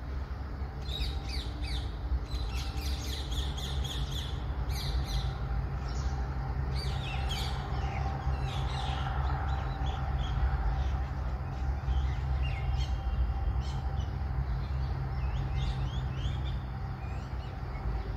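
Small birds chirping in the trees, many short high calls coming and going, over a steady low rumble.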